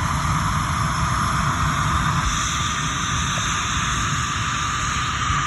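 Ryanair Boeing 737 jet airliner taking off, its engines at takeoff power giving a loud, steady rush of noise with a deep rumble underneath.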